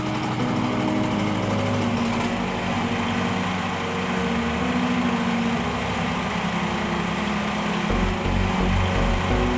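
A small generator engine running steadily under background music with held chords; a low pulsing beat enters near the end.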